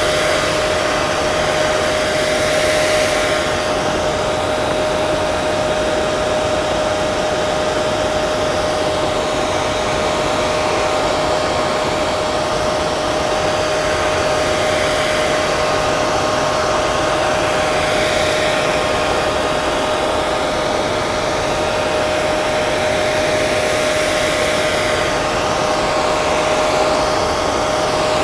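Hair dryer running continuously: a steady rush of air with a constant motor whine, as white noise.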